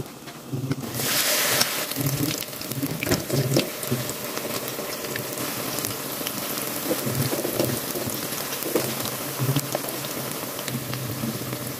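Battered tempe slices deep-frying in hot oil in a wok: a steady sizzle full of small crackles and pops, briefly louder about a second in.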